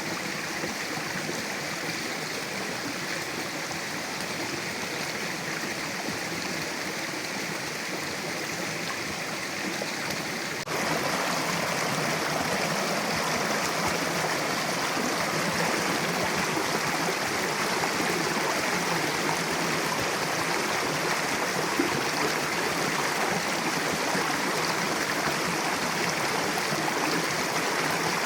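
Mountain river rushing steadily over rocks. About a third of the way in the sound jumps suddenly louder and fuller, as at a splice between takes, then carries on evenly.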